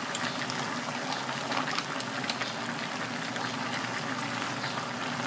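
Pork stew simmering in a wok over a gas burner: a steady bubbling hiss with scattered small crackles as tomato sauce is poured in.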